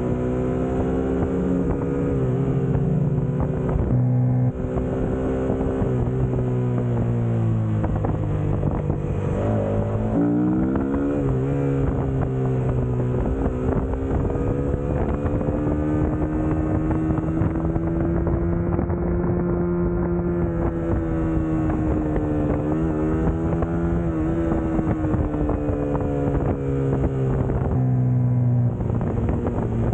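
Suzuki GSX-S150's single-cylinder engine running as the motorcycle is ridden, its note rising and falling with the throttle. The note breaks briefly about four seconds in and again near the end, and swoops down and up again around the tenth second.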